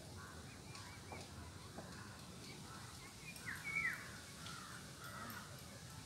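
Birds calling faintly: scattered small chirps, then a quick run of short notes that each drop in pitch about three and a half seconds in, over a faint steady hiss.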